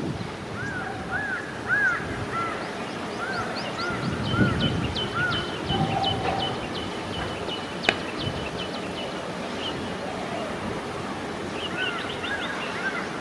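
Several birds calling outdoors: repeated short arched chirps and quick high falling notes, over a steady background hiss, with one sharp click about eight seconds in.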